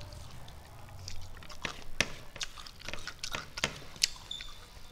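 Close-up eating sounds of a person chewing a mouthful of rice and side dishes with the mouth open: irregular sharp smacking clicks, the loudest about two and four seconds in.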